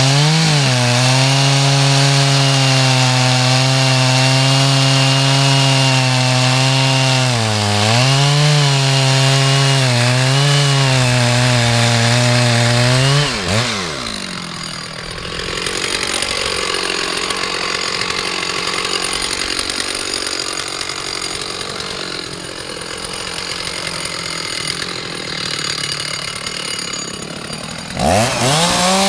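Two-stroke chainsaw running at high speed, its pitch dipping briefly twice. About halfway through, the revs fall away to a quieter, rougher running. The engine revs back up to full speed near the end.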